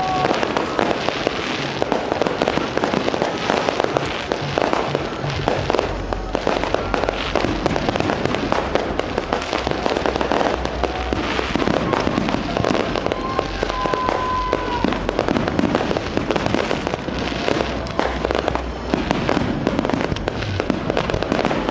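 Aerial fireworks display: a dense, continuous barrage of rapid bangs and crackles.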